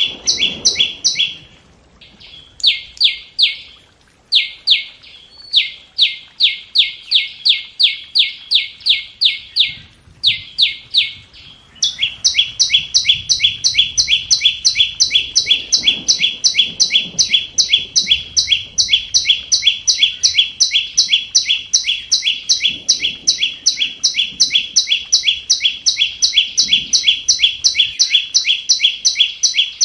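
Flowerpecker calling: a fast, even series of short, high, sharp notes, broken by a few brief pauses at first and then running on without a break from about twelve seconds in. It is a recorded lure call used to draw wild birds to a trap.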